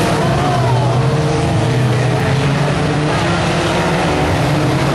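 Engines of several 1600cc banger racing cars running hard together, overlapping, their pitch rising and falling as they rev.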